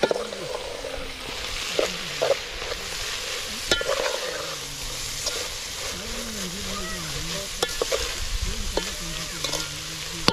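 Small omena fish sizzling as they fry in a metal pot, stirred with a metal spoon that scrapes and knocks against the pot several times.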